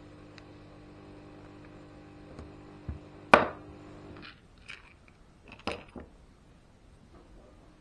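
Small parts and tools handled on a workbench: one sharp knock a little over three seconds in, then a few lighter clicks and taps. A steady background hum cuts off about four seconds in.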